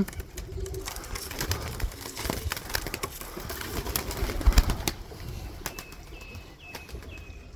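Tippler pigeons at a feed tray: soft low cooing with scattered taps, pecks and wing flutters, loudest about halfway through. Near the end comes a run of short high peeps, about two a second.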